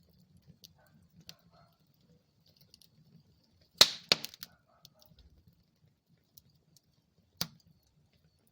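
Wood fire burning in a fireplace: faint scattered crackling over a low rumble, with a loud cluster of sharp pops and cracks a little before halfway and one more loud crack near the end.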